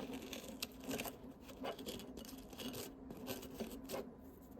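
Irregular crinkling and tearing handling noises with a few sharp crackles, over a faint steady hum.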